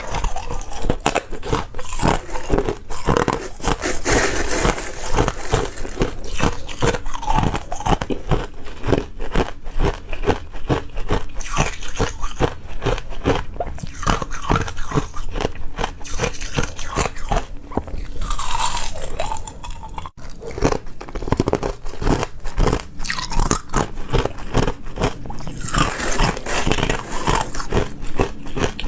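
Close-miked person biting and chewing ice: a dense, irregular run of hard crunches and cracks, with a brief break about two-thirds of the way through.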